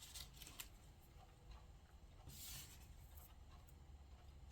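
Near silence, with faint rustling of paper cutouts being handled and a soft paper swish about two seconds in.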